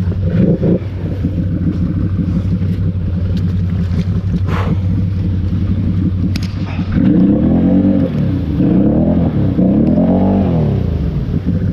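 ATV engine running at a steady speed, then revved up and back down three times in quick succession.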